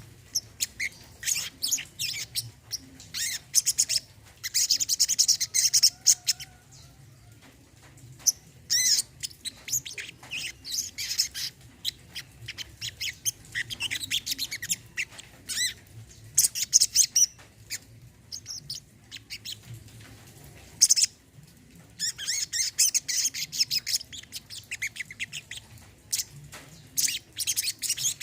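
Brown-throated sunbird (kolibri kelapa) singing: bursts of rapid, high-pitched twittering chirps, each lasting one to three seconds, separated by short pauses.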